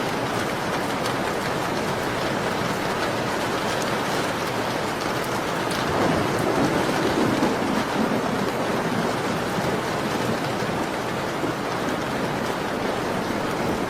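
Steady heavy rain falling, with scattered small crackles of a wood fire over it. About six seconds in, a deeper rumble swells for a couple of seconds and fades.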